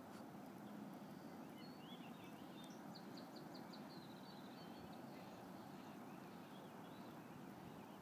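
Faint bird calls: scattered short chirps and a quick run of about six high notes a few seconds in, over a steady low background hum.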